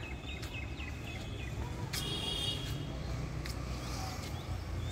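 Birds calling: a quick run of about six short chirps in the first second and a longer call about two seconds in, over a steady low background rumble.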